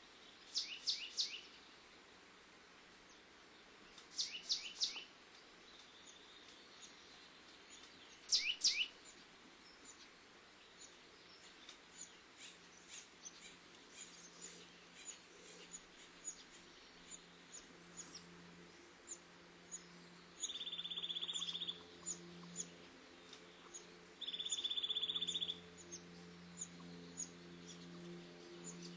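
Wild birds calling: three quick bursts of falling whistled calls in the first nine seconds, then a run of short, high chirps about twice a second, with three buzzy trills of about a second and a half near the end. A low, steady hum comes in about twelve seconds in.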